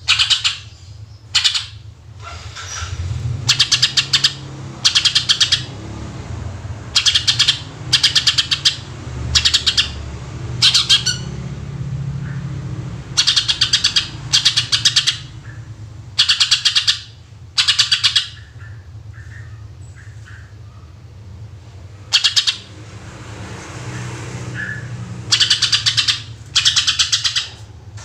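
Cucak ijo (green leafbird) singing in its 'tembakan' style: repeated bursts of rapid, sharp notes, each burst under a second, coming every second or two, with a pause of a few seconds about two-thirds of the way through.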